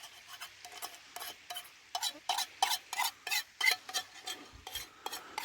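A metal utensil stirring and scraping food in a pan, a steady run of short clinks and scrapes about three a second, louder from about two seconds in.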